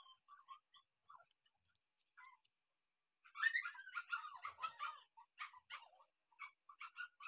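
Animal calls, most likely birds chirping: a few scattered chirps, a dense flurry of rapid chirps a little past the middle, then single short chirps about every half second.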